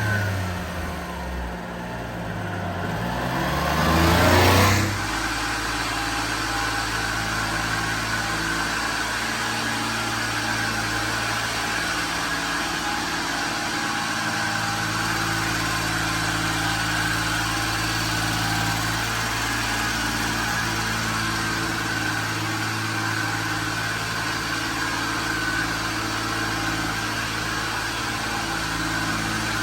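A 1993 Suzuki Carry mini truck's small three-cylinder engine running. Its pitch rises and falls over the first few seconds, loudest about four seconds in, then it settles into a steady idle.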